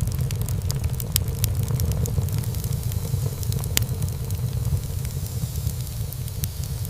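Wood fire burning in a fireplace: a steady low rumble of flame with frequent sharp crackles and pops from the burning wood, one louder pop a little past halfway.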